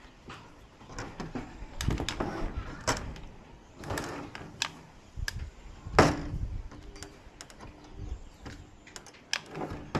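Scattered clicks and knocks of hands handling TV parts and tools on a workbench, the loudest knock about six seconds in.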